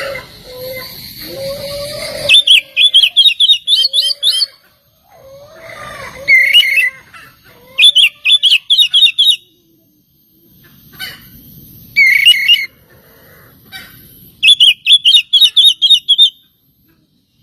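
Oriental magpie-robin (kacer) singing loud bursts of fast, repeated high notes, about five phrases with short pauses between them. Lower gliding calls sound in the first two seconds and once or twice between phrases.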